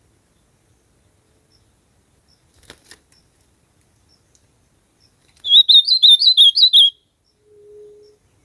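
Ultramarine grosbeak (azulão) singing one short, fast warbled phrase of quick up-and-down notes, lasting about a second and a half, a little past the middle.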